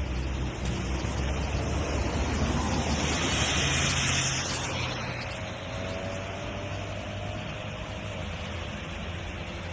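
Car engine running with street traffic noise, swelling louder about three seconds in as a rush of noise passes, then settling back.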